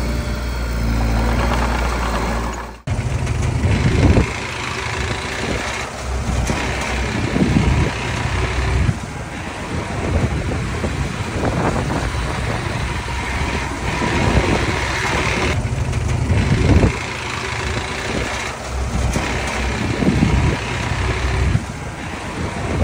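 Small bulldozer's diesel engine running under load, its sound rising and falling every second or two, with a sudden break about three seconds in.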